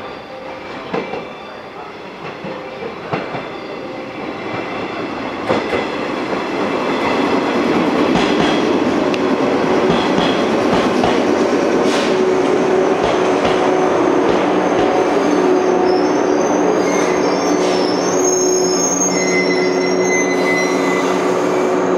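Yellow electric commuter train pulling into a station platform, with a few sharp clacks of its wheels over rail joints as it nears. Its running noise grows loud and then holds steady as the cars pass. In the last few seconds, steady high squealing tones join in.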